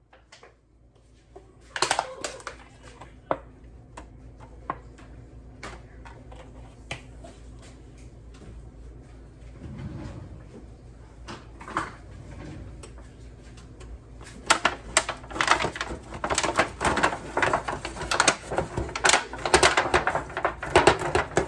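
Kitchen handling noises: scattered clicks and knocks, then from about two-thirds of the way in, a dense run of rapid clicking and rustling.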